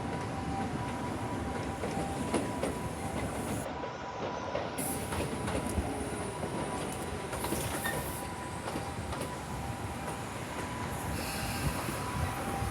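Electric train running along the tracks: a steady rush of wheels on rail with scattered clicks and a faint steady high whine.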